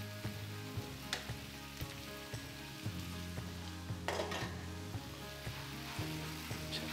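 Cabbage-and-chicken okonomiyaki mixture sizzling steadily in a frying pan on a gas burner, with a few light knocks from the glass lid and spatula against the pan, about a second in and again about four seconds in.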